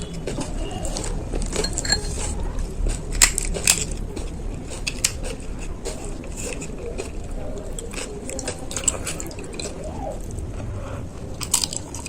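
A person chewing a mouthful of panipuri, the crisp puri shell crackling and squishing with the filling, with scattered small crunches throughout.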